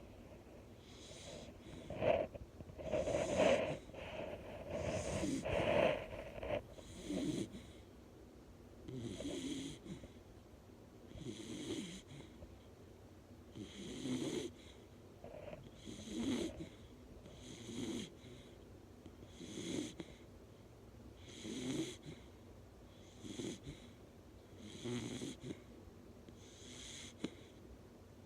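Bull terrier snoring, one snore with each breath about every two seconds; the snores are louder for the first several seconds.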